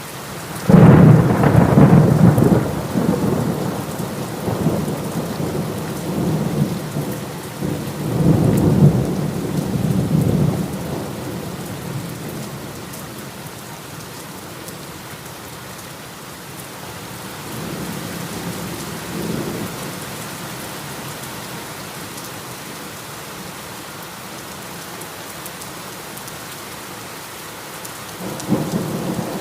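Steady heavy rain with rolling thunder: a loud peal starts suddenly about a second in and rumbles for a couple of seconds, another rumble comes around eight seconds, a fainter one near twenty seconds, and a new one begins near the end.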